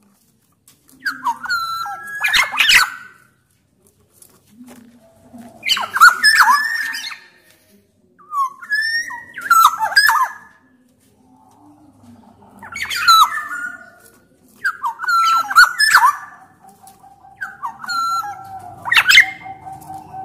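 Black-naped oriole calling in about six short bouts a few seconds apart. The bouts mix bending whistled notes with harsh, rasping ones. A faint steady tone comes in near the end.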